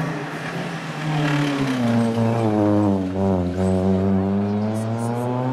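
Suzuki Swift rally car's engine revving hard through a corner. The note sinks for about three seconds, then climbs again as the car pulls away.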